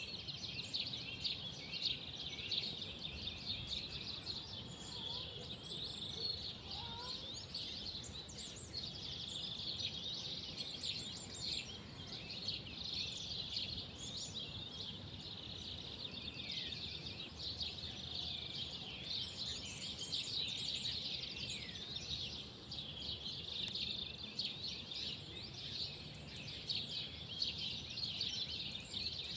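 Many small birds chirping together in a dense, continuous chorus, with a few falling whistled notes, over a low steady rumble.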